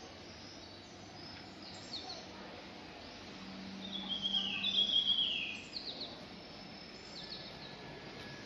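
Birds chirping in the trees, short high calls throughout, with a louder run of calls stepping down in pitch about four to five seconds in, over a steady outdoor hiss.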